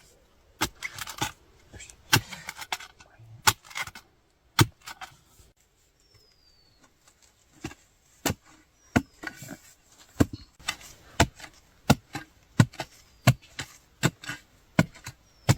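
Repeated chopping strikes of a hand digging tool biting into the ground: a few spaced blows, a short pause, then steady blows about every two-thirds of a second.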